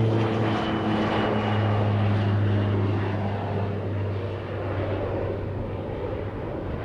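Airplane passing close by: a low, steady engine hum fades out after about three seconds, over a broad rush of engine noise that slowly dies away.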